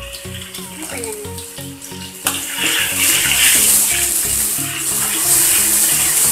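Ground spice paste frying in hot oil in a wok. The sizzle comes up suddenly about two seconds in and stays loud while the paste is stirred with a spoon. Background music plays throughout.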